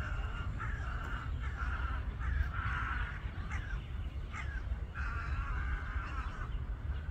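Birds calling overhead in a string of about eight to ten short and drawn-out calls, the loudest about three seconds in and a longer one from about five seconds, over a steady low rumble.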